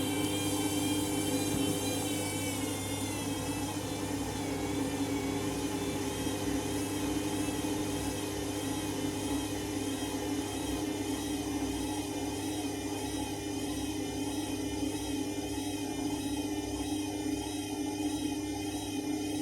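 Candy Grand'O Vita 7 kg washing machine spinning: a steady motor hum and drum whir with a high whine that dips slightly in pitch in the first few seconds, then holds steady.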